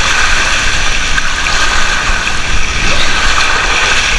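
Loud, steady rushing of water with no breaks.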